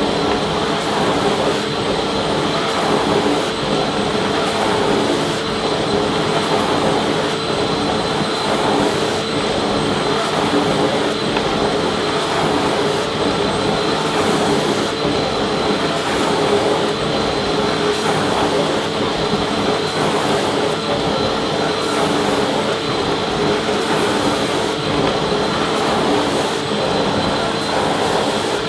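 Vacuum cleaner running steadily, a constant motor whine over a dense rush of airflow.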